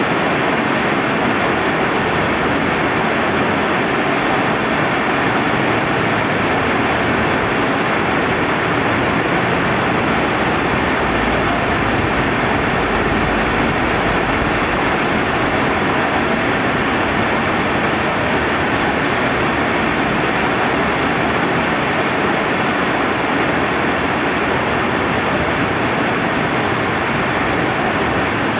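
Steady heavy rain together with flowing river water, a dense, even hiss that does not change.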